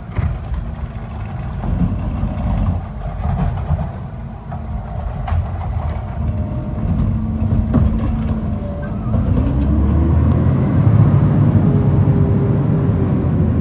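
Garbage truck's engine running with scattered clanks and knocks. About nine seconds in it revs up, rising in pitch, and holds at a higher, louder level.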